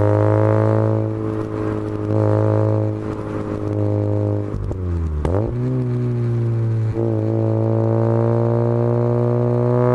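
Mazda RX-8's two-rotor Renesis rotary engine droning steadily through a straight-through stainless exhaust with the catalytic converter removed, held at a constant engine speed. About five seconds in the pitch dips sharply and climbs back, settling a little higher.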